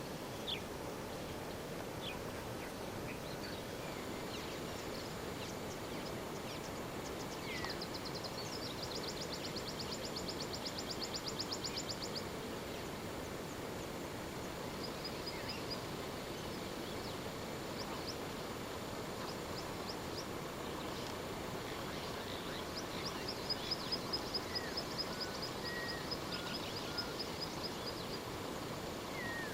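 Birds calling over a steady outdoor background hiss: scattered short chirps and two rapid high trills, one about a third of the way in and one near the end.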